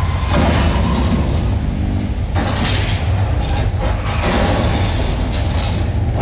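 Staged earthquake effects: a deep, continuous rumbling with surges of crashing, rushing noise about a third of a second, two and a half seconds and four seconds in.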